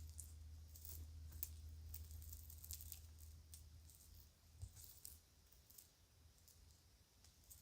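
Faint handling of kids' jewelry and a bag: scattered light clicks and rustles. A low hum fades out about halfway through.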